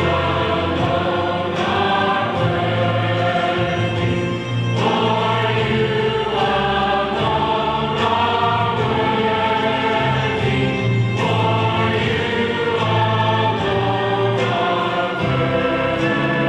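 Choir singing with instrumental accompaniment, in long held chords.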